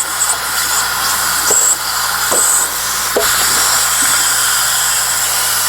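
Compressed air hissing steadily as it is blown through an air line into a vinegar-filled water heater tank and escapes from the open lines, stirring up the vinegar to break loose scale; a few faint knocks in the middle.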